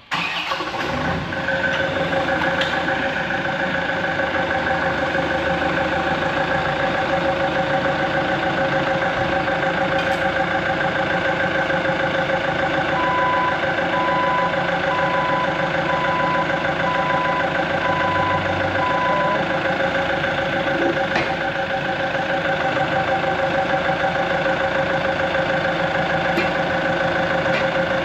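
Heavy diesel crawler dozer engine running steadily, with a backup alarm beeping about once a second for several seconds in the middle.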